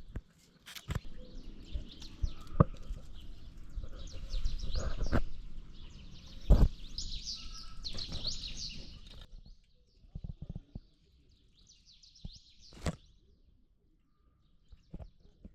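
Small birds chirping in quick, high twitters, densest in the first nine seconds and returning briefly later, with scattered sharp knocks and taps.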